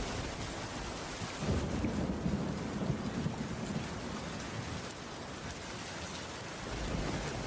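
Steady rain, heard as a constant hiss. A low rumble swells about a second and a half in and dies away after a few seconds.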